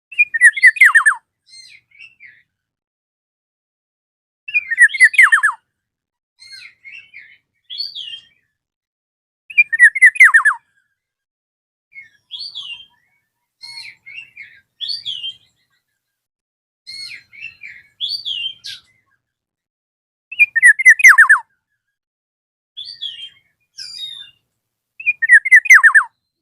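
Black-naped oriole (kepodang emas) singing loud, fluty whistled phrases that fall in pitch, five times at intervals of about five seconds. Softer short whistled notes come between the phrases.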